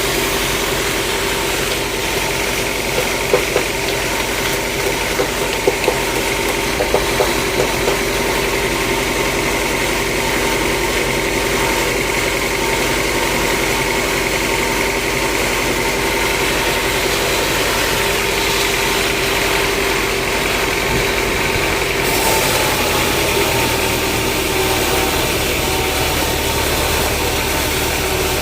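Sawmill machinery running steadily with an engine-like drone and a steady hum. A few sharp knocks come a few seconds in, and the sound shifts slightly about three-quarters of the way through.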